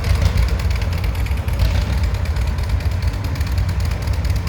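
Antique farm tractor engine running steadily, a low, evenly pulsing engine note.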